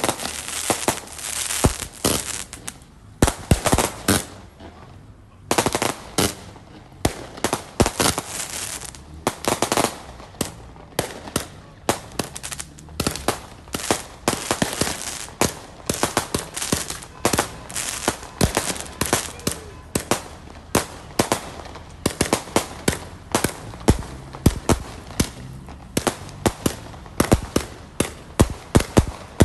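Fireworks going off close by: a dense crackle for the first few seconds, a short lull, then rapid, irregular sharp bangs, several a second, overlapping.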